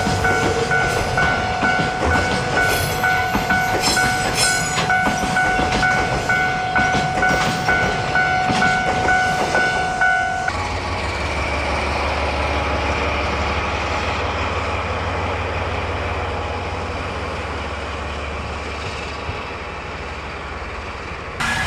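Freight train wagons clattering over rail joints while a railway level-crossing warning bell rings in steady pulses. About halfway through, the bell and clatter stop abruptly and a steady low rumble of the train runs on, slowly fading.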